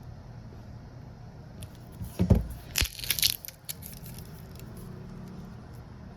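Handling noise: a short burst of rustling and a few sharp knocks about two seconds in, over a steady low hum.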